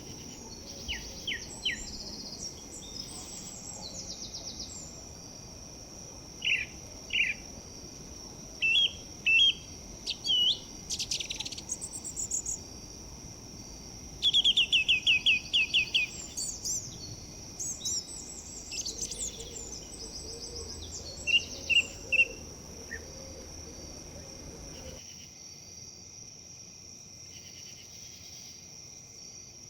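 Several songbirds chirping and calling in short phrases, the loudest a quick run of falling notes about halfway through, over a steady high insect drone. Beneath them is a soft rustle of wind in leaves, which cuts off suddenly about five seconds before the end.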